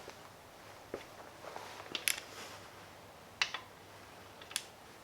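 A few scattered sharp clicks and clinks, about four over the span, from hand tools and parts being handled while the Hemi's piston and rod assemblies are taken apart.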